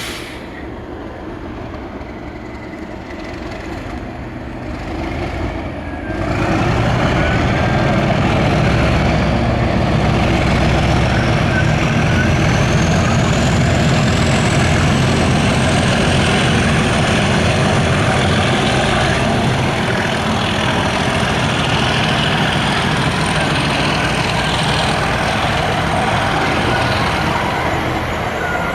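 Class 37 diesel locomotive's English Electric V12 engine working hard as it approaches and passes. The engine sound jumps sharply louder about six seconds in and then holds loud and steady, with a high whine rising in pitch over the following ten seconds.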